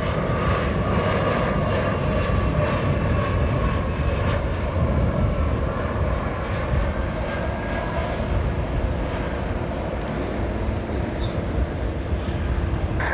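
Jet airliner's engines running at high power, a steady loud rumble with faint whining tones slowly shifting in pitch, typical of an airliner on its takeoff run.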